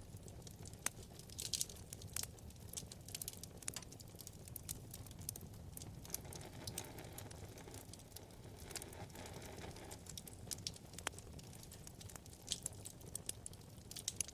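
Wood fire burning in a fireplace: a low steady rumble of flame with irregular sharp crackles and pops from the burning logs.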